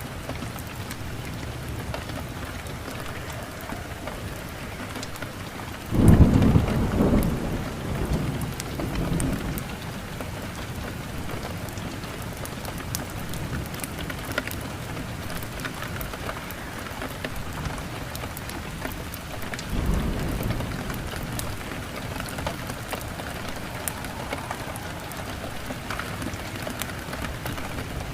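Steady rain falling, with a loud thunderclap about six seconds in that rolls on for a few seconds, and a softer roll of thunder later.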